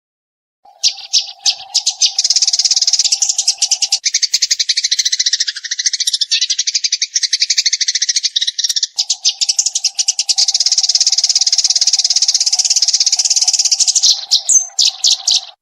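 Eurasian tree sparrow chirping in a rapid, continuous run of fast-repeated notes, the fast-fire 'tembakan' song used to tutor other songbirds. It starts about a second in and cuts off abruptly at the end.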